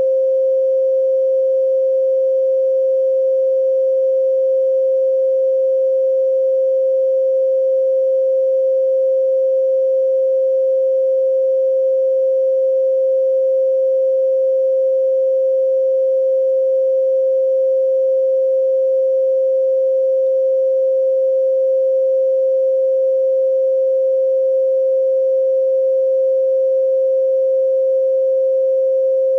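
A steady pure sine tone at 528 Hz, held at one pitch and level throughout: a 528 Hz 'healing frequency' tone.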